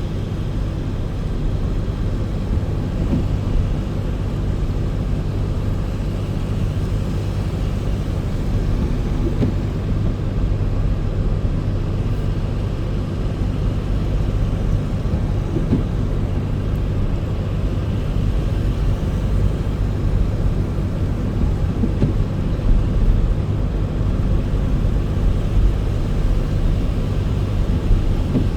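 Steady low rumble of a car being driven, engine and tyre noise with no sudden events.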